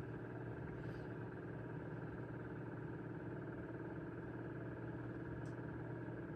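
A steady low hum of background noise with no change in level.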